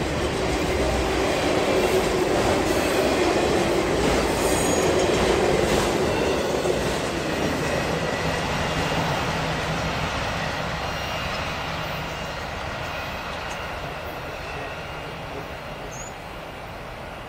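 Freight train of autorack cars rolling past, steel wheels rumbling and clattering on the rails. The sound is loudest for the first six or seven seconds, then fades steadily as the last cars pass and the train moves away.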